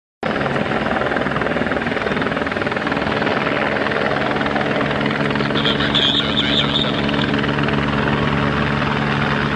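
Aerospatiale AS355 twin-turbine helicopter running close by: a steady rotor and turbine din with a low hum, cutting in abruptly at the start, with a brief high whine about six seconds in.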